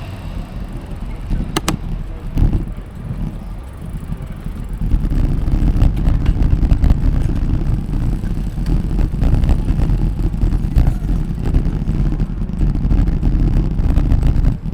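Wind buffeting the microphone while riding a bicycle: a steady, gusting low rumble that grows louder about five seconds in, with a sharp click early on.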